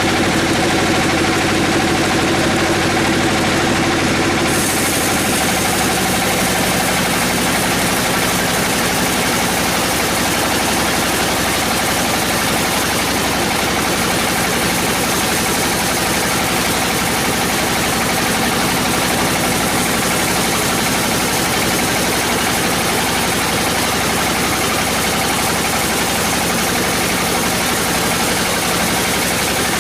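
Sawmill machinery running steadily: a continuous engine-like hum under dense mechanical noise. The sound shifts about four seconds in, with more hiss and a different hum.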